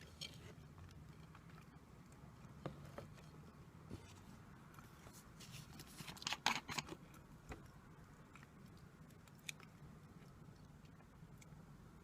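Quiet close-up eating sounds: scattered small crisp clicks, with a short cluster of crunchy crackles about six seconds in.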